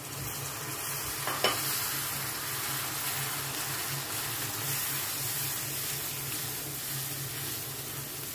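Chopped tomatoes sizzling in hot oil with fried onions and spices in a non-stick wok, stirred and scraped round the pan with a spatula; one sharp tap about a second and a half in.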